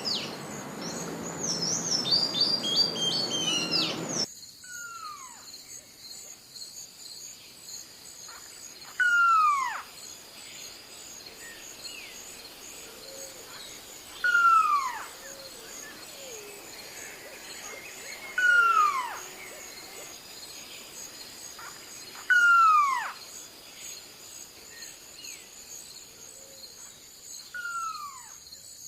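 Birds calling. For the first four seconds there is rapid chirping over a rushing background, then it cuts to a single loud call that slides steeply down in pitch, repeated about every four to five seconds, over a steady high-pitched hum.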